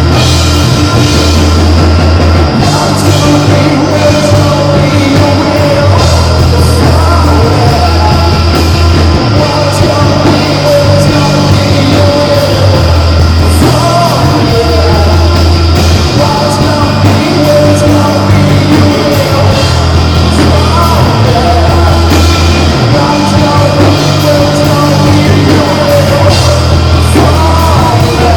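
Live rock band playing loud, with a heavy bass line of long held low notes that change every second or two under a dense wash of drums and guitar.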